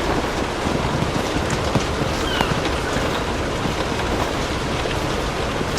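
Steady rain with the scattered crackle of a fireplace fire.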